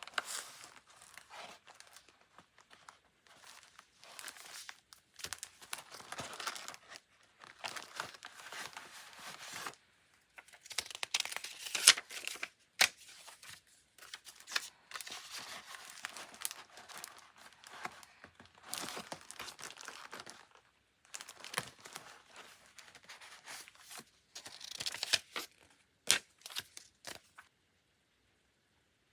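Paper and plastic sticker sheets being handled, crinkling and rustling, with tearing sounds in irregular bursts and a few sharp clicks. The rustling stops near the end.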